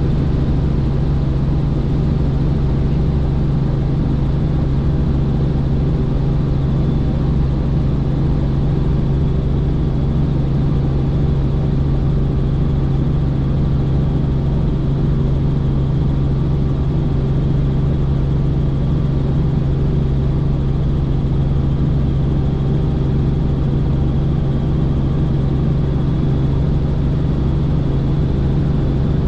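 Helicopter in flight: steady engine and rotor noise with a strong low hum, unchanging throughout.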